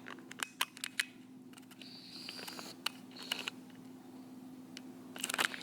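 52-inch Hunter Savoy five-blade ceiling fan running on low speed with a steady motor hum, with scattered sharp clicks over it.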